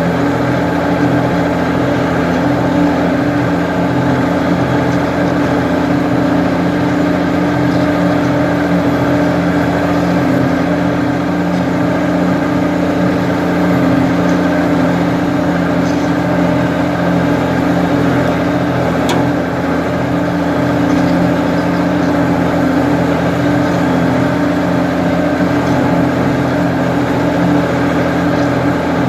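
Ford 550 backhoe's engine running steadily at an even speed.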